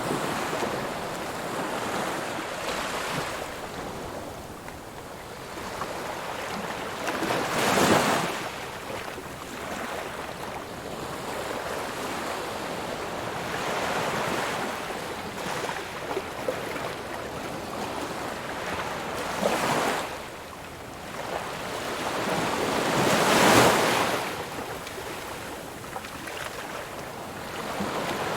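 Ocean waves breaking on a shore: a steady wash of surf that swells into louder crashing breakers several times, the strongest about 8 and 23 seconds in.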